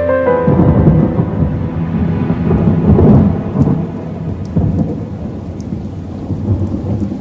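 Thunder rumbling over rain, swelling about three seconds in and slowly dying away, with a few faint raindrop ticks. A tail of soft music fades out right at the start.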